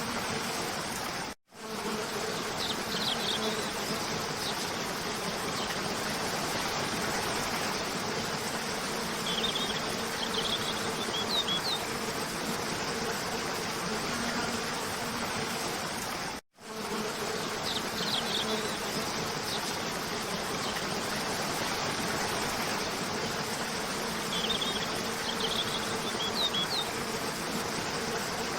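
Cascading waterfall rushing steadily, with short clusters of high bird chirps every several seconds and a low insect buzz that comes and goes. The sound cuts out abruptly twice, about fifteen seconds apart, where the recording loops.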